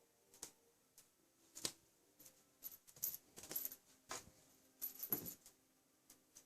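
Scattered light taps, clicks and small clinks of cats pawing and pouncing at a string toy, irregular, with the busiest stretch from about three to five seconds in.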